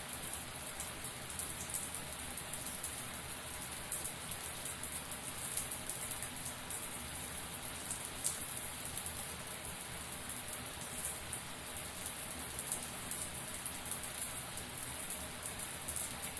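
Running shower: a steady hiss of water spraying and dense small drops pattering on a hard surface.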